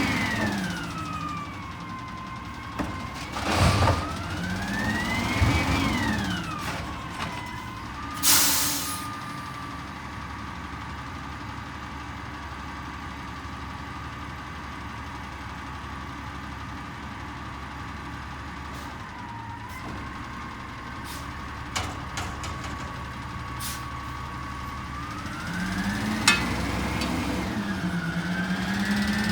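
Peterbilt 320 garbage truck with an Amrep body revving up and down with a rising and falling hydraulic whine as its packing hydraulics cycle, with sharp air hisses about four and eight seconds in. In between it holds a steady whine, and near the end it revs up again.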